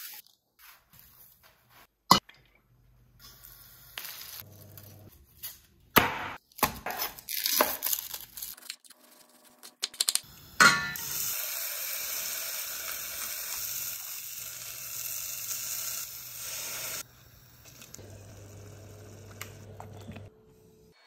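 A chef's knife cutting an onion on a wooden chopping board, a few sharp knocks. Then, from about ten seconds in, a loud steady sizzle of food frying in a hot pan, which stops suddenly about six seconds later.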